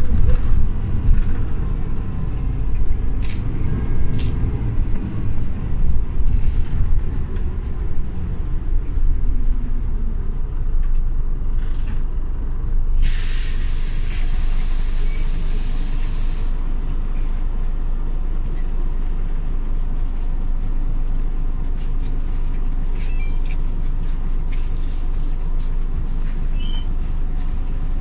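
Scania OmniLink city bus engine running steadily. A little under halfway through, a loud hiss of compressed air lasts about three and a half seconds, the bus's pneumatic air brakes or door system venting. A few short clicks come in the first half.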